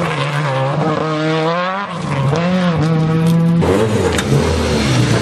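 Renault Clio R3 rally car's 2.0-litre four-cylinder engine revving hard, its pitch climbing and dipping with gear changes as it pulls away. A little after halfway it cuts abruptly to a lower, rougher engine note at low revs close by.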